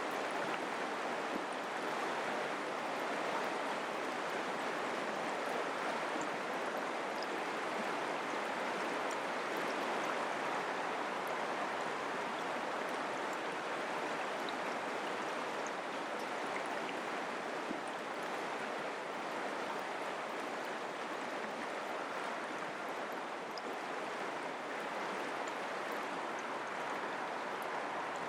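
Mountain creek water flowing, a steady, even rush with no change over the stretch.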